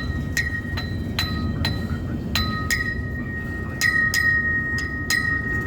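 Mechanical railroad-crossing bell ringing, its hammer striking about two to three times a second, each strike leaving a ringing tone, over the low steady rumble of a passing freight train.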